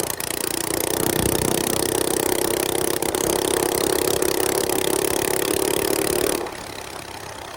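Mini bike's small engine running at a steady high pitch under throttle while riding a dirt trail, then easing off about six and a half seconds in.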